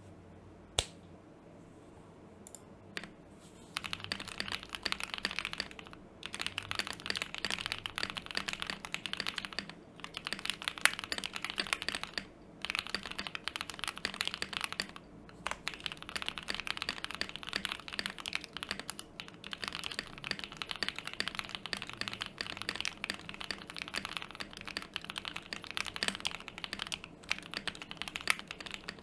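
Fast typing on a KBD67 MarK II custom mechanical keyboard: lubed KTT Roses linear switches on a top-mounted POM plate in a polycarbonate case, with GMK doubleshot keycaps. A few single keystrokes come first, then about four seconds in a steady run of rapid keystrokes begins, broken by a few short pauses.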